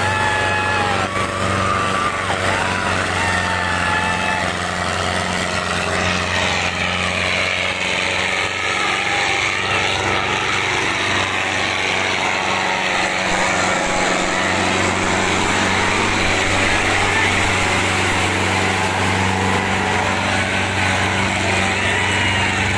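Sonalika tractor's diesel engine running at a steady speed, with no change in revs. Faint voices of onlookers call out over the engine in the first few seconds and again near the end.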